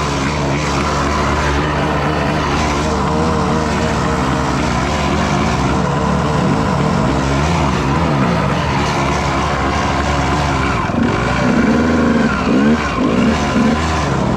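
Dirt bike engine running under load on a trail, its pitch repeatedly rising and falling as the throttle is worked, with quicker swoops near the end.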